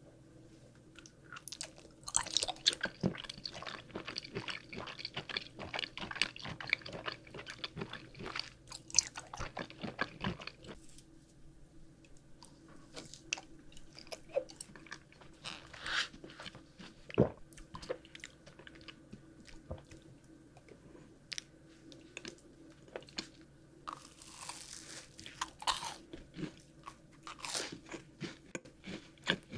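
A person biting and chewing crunchy candy, with many crisp crunches. The crunching is dense for the first ten seconds or so, then comes in sparser bites.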